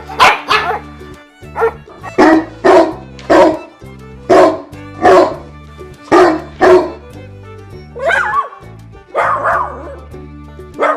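Dog barking repeatedly: about a dozen short, sharp barks, some in quick pairs, over steady background music.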